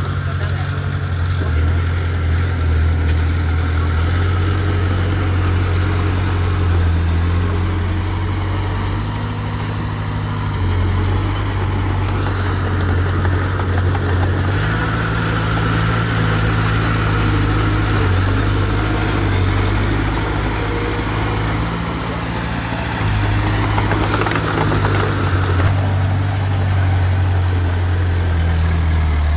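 Diesel engine of heavy earthmoving machinery running steadily under work, its low tone stepping up and down in pitch several times as the load and throttle change.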